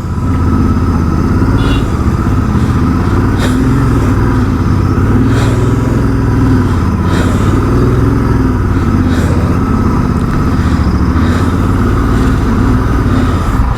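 Motorcycle engine running steadily at low speed in slow traffic, with a dense low rumble throughout.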